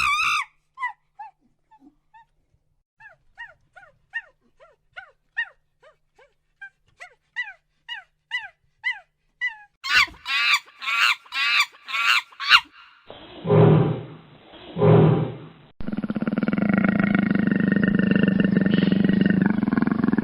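A run of different wild animal calls. First comes a long series of short, falling, pitched calls, about two a second. Then a few louder pitched calls, two deep calls, and a long, continuous deep roar near the end.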